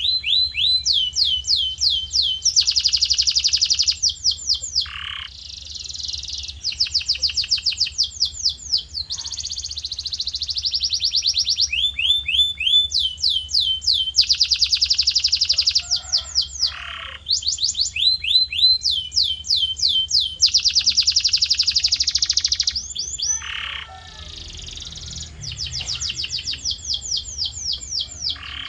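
Male canary singing a long, continuous song of rapid trills and rolls: fast runs of repeated falling notes and buzzy rattles, switching to a new phrase every second or two.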